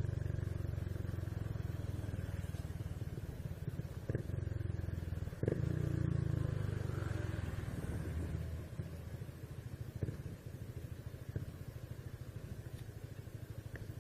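Honda Biz 125 motorcycle engine running under way, with a steady low engine note; a short knock comes about five and a half seconds in, and the engine gets quieter around eight and a half seconds in, as when the throttle is eased off.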